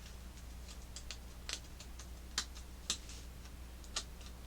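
Faint, unevenly spaced small clicks and snaps of hard plastic, as flashing is trimmed off a 3D-printed clock part.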